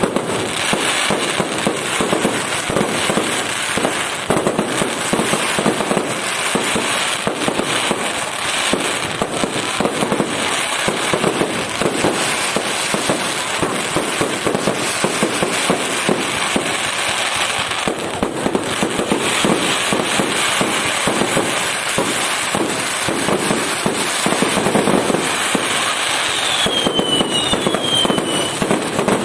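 Fireworks display: a dense, unbroken barrage of bangs and pops from exploding shells, with a couple of falling whistles near the end.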